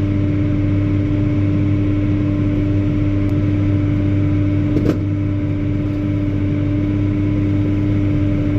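Versatile 2375 four-wheel-drive tractor's diesel engine running steadily, a constant low drone with a steady hum tone. One brief click sounds about five seconds in.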